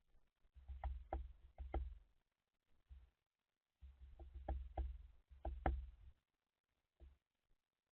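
Bird feeder being knocked and tapped by birds feeding on it: irregular sharp taps with dull thuds, in two bursts and then one last tap near the end.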